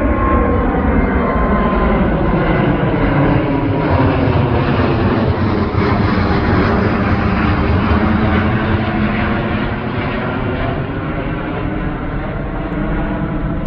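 Jet airliner's engines passing by, a loud steady noise with many tones that slowly bend in pitch, easing slightly near the end.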